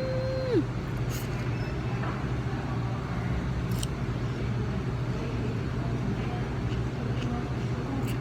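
Steady car engine and road hum heard from inside the cabin, with a short pitched tone in the first half second and a couple of faint clicks.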